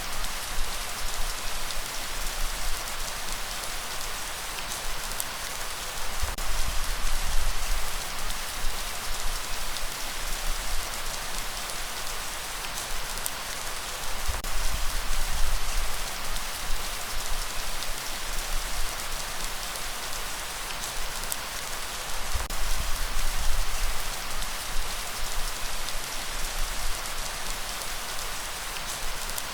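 Steady heavy rain falling, an even hiss, with a low rumble underneath that swells and fades every several seconds.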